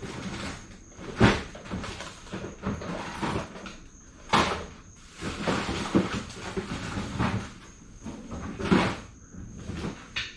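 Hands rummaging through and handling hard metal parts and tools: irregular knocks, clanks and scraping, with sharp loud strikes about a second in, at four seconds and near nine seconds.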